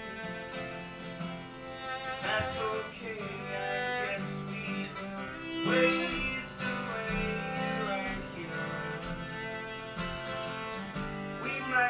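Live acoustic music: a fiddle playing held notes, some sliding in pitch, over guitar.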